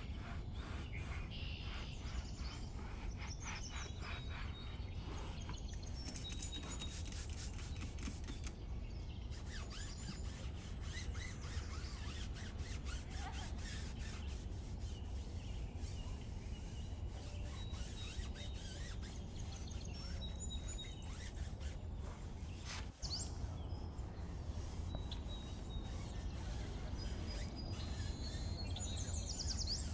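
Outdoor ambience: a steady low rumble with birds chirping now and then, and a run of soft clicks or scrapes during the first several seconds.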